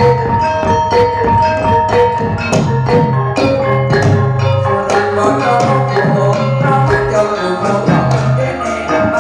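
Javanese gamelan music accompanying a jatilan dance: struck bronze metallophones ring out a busy run of notes over sharp drum strokes and low held tones.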